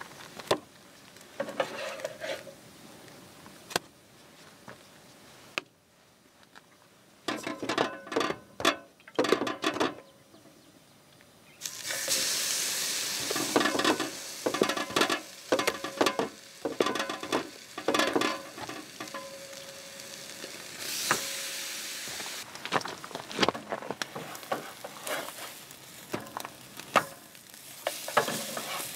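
French toast frying in a hot nonstick pan: the sizzle starts suddenly about halfway through as the egg-dipped slice is laid in, then carries on steadily. Clicks and scrapes of a spatula against the pan come before and during it.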